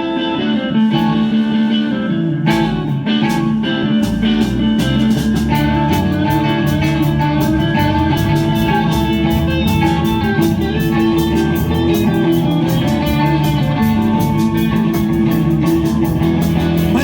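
A live rockabilly band playing an instrumental passage with electric guitar leading. The drums come in with a steady beat about four seconds in.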